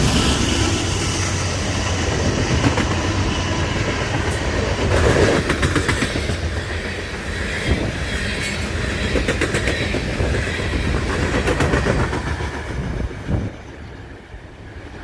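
A coal train rolling past, a steady rumble with the wheels clicking over rail joints. About 13 seconds in the sound drops away as the last cars go by.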